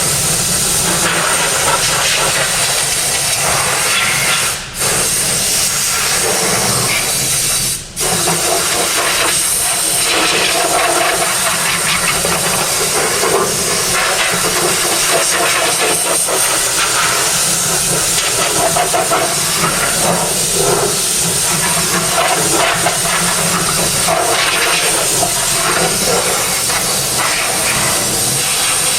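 Pressure washer spraying water over a car's engine bay, a loud steady hiss that breaks off briefly twice, about five and eight seconds in.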